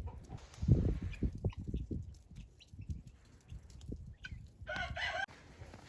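Domestic fowl giving one short, pitched call about five seconds in, after a couple of seconds of soft low thumps and rustling.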